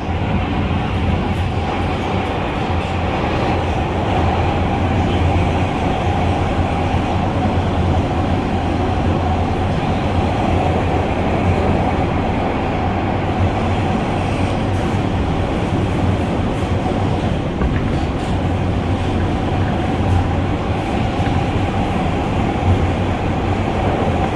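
R143 subway car running at steady speed through a tunnel, heard from inside the car: a constant rumble of wheels on rail with a steady hum over it.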